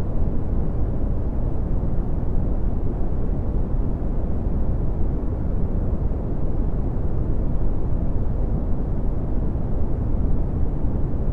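Red (Brownian) noise: a steady, deep rumbling hiss, strongest in the bass and falling away toward the treble, unchanging throughout.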